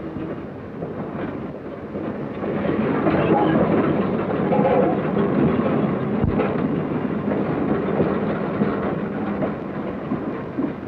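Train moving along the track, a heavy rolling rumble with some rail clatter that builds over the first few seconds and then stays loud.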